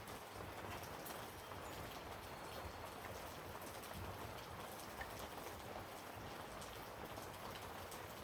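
Steady patter of rain falling, an even hiss with faint scattered ticks.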